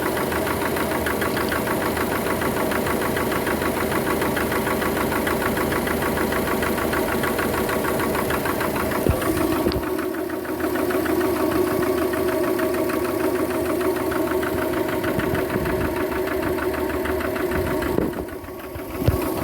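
Subaru EJ255 2.5-litre turbocharged flat-four engine running with a fast, steady knock, which the owner suspects may be a connecting rod. The loudness dips briefly near the end.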